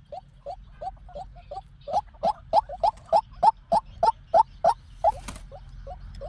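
White-breasted waterhen calling, a quick series of short repeated notes at about three to four a second. The notes are softer at first and grow louder from about two seconds in. A brief hiss comes about five seconds in.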